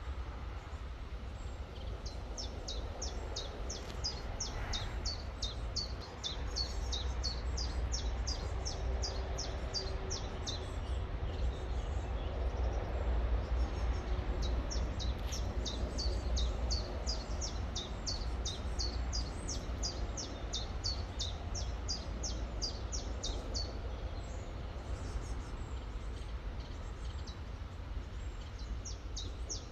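A songbird sings long runs of quick, high, falling notes, about three or four a second, breaking off for a few seconds midway and starting again, over a steady low rumble.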